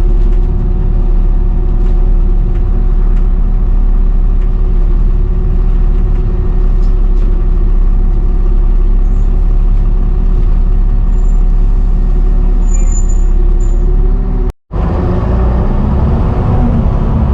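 Volvo B7TL double-decker bus running with a loud, hoover-like whine over its engine drone. The whine holds steady, cuts out briefly about three-quarters of the way through, then rises in pitch as the bus pulls away and accelerates.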